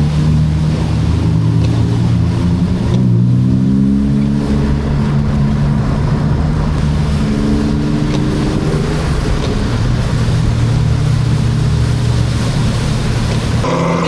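BMW 328Ci's 2.8-litre straight-six engine running hard with the throttle worked on and off, its pitch dropping and climbing several times and sweeping up quickly near the end, over a steady hiss of tyres on a wet road.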